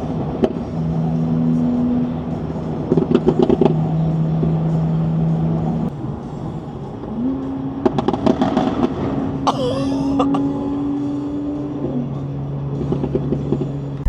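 Car engines and exhausts running with a steady hum that breaks off and resumes, with a brief rev up about halfway through and a drop near the end, and bursts of crackle in between.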